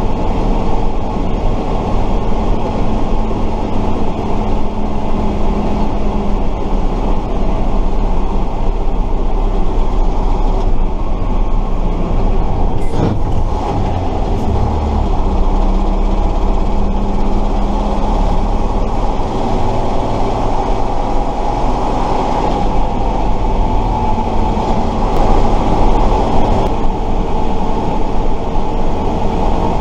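A 1968 Tatra 138 fire truck's air-cooled V8 diesel engine running loudly while the truck is driven, heard on board. Its note shifts a few times, and there is a single sharp knock about 13 seconds in.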